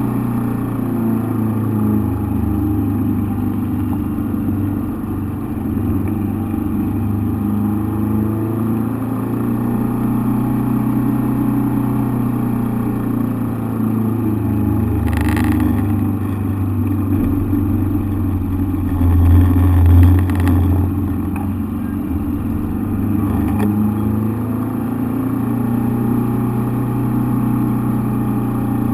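A vehicle engine running steadily at a near-constant pitch, heard from inside the cockpit. There is a sharp crack about halfway through and a louder low thump a few seconds after it.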